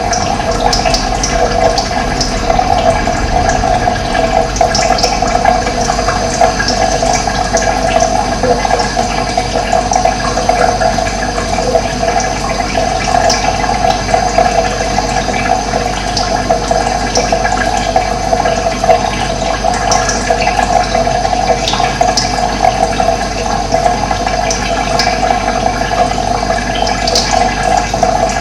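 Running water flowing in a steady rush, with brief high bird chirps scattered faintly over it.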